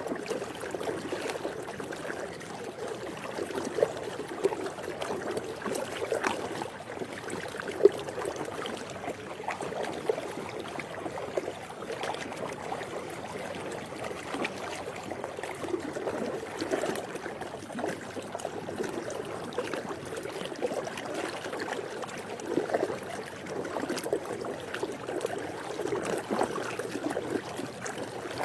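Swimming pool water lapping and gurgling: a steady wash of many small, irregular splashes.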